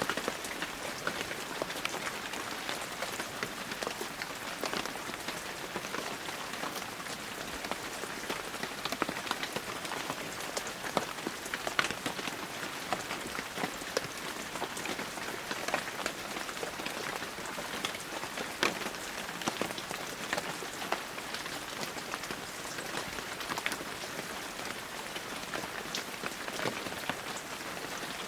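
Steady heavy rain falling, with many close individual drops ticking sharply on surfaces among the continuous hiss.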